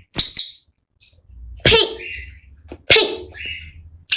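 Amazon parrot giving a few short, harsh squawks in quick bursts, from an agitated bird that has just been biting.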